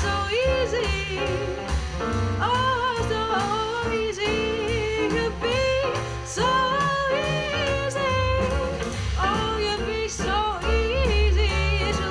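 Swing jazz: a woman singing over a jazz trio, with a steady low bass line beneath the vocal.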